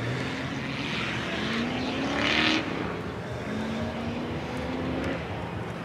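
Land Rover engine accelerating on an off-road course, heard at a distance, its pitch rising twice. A brief hiss about two seconds in.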